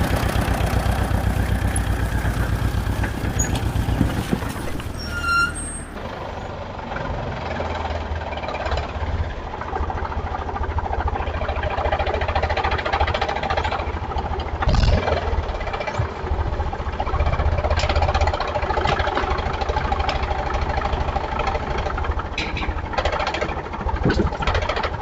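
A vehicle engine running with a steady low rumble. The sound changes abruptly about six seconds in, as if cut to another recording.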